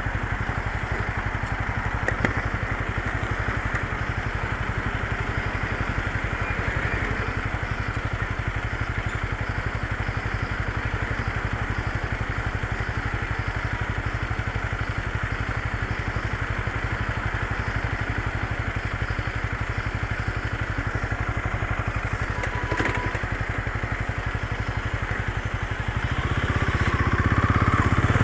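Motorcycle engine running steadily, getting louder near the end as it picks up.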